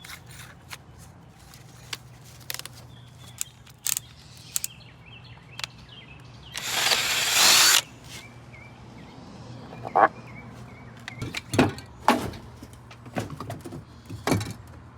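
Tools and hardware being handled, heard as scattered clicks and knocks, with one loud burst of about a second from a power tool around seven seconds in. Birds chirp faintly in the background.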